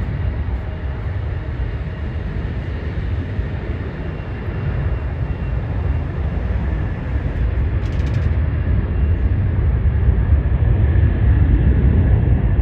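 Delta Boeing 737-800's CFM56 turbofans at takeoff thrust: a heavy jet rumble with a faint steady whine, growing louder over the second half.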